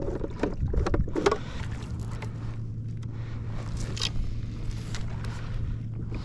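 Knocks and scrapes of gear being handled on a fishing kayak, over water and wind noise, with a steady low hum starting about a second and a half in.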